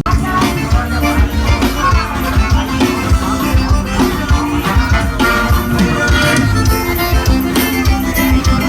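Loud music with a heavy, steady beat played through a car audio sound system. A fuller, brighter mix cuts in suddenly at the start.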